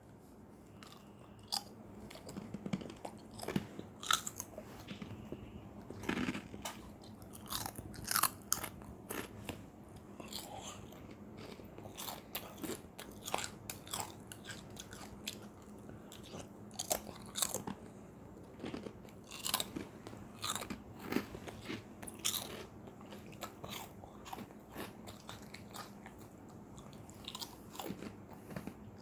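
Labrador retrievers crunching and chewing crisp honey twist snacks: many irregular sharp crunches, one after another.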